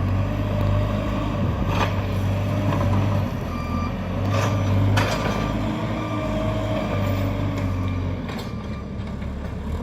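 JCB backhoe loader's diesel engine running under work with a steady low drone. A few sharp metal clanks ring out from the machine, two of them close together about halfway through.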